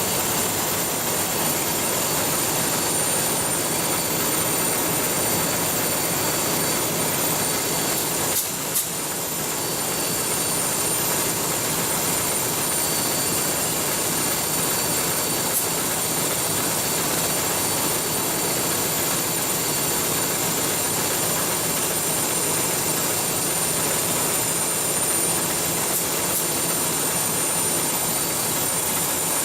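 Loud, steady machinery noise aboard a cargo ship under way during its sea trial, with constant high-pitched whines on top. The noise dips briefly about eight seconds in.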